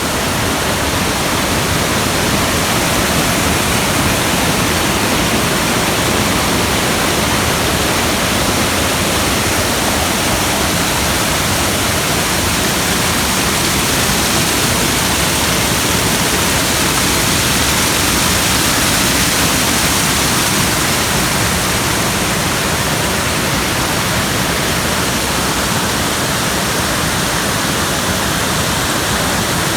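Loud, steady rush of the Kiwai waterfall, water falling and splashing without letup.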